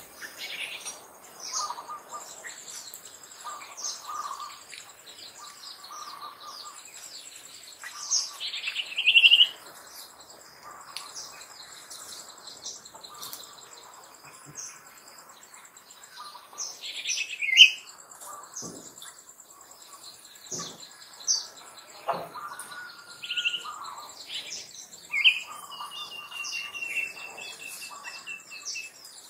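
Birds calling and chirping, with a few louder, sharper calls standing out, the loudest about a third and two thirds of the way through, over a steady high buzz.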